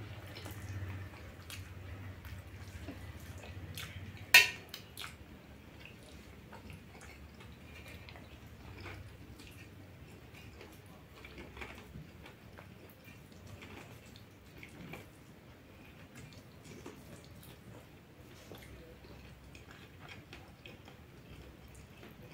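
Close-up eating sounds: wet chewing and small mouth clicks, first on noodles and then on corn on the cob. One sharp click about four seconds in is the loudest sound.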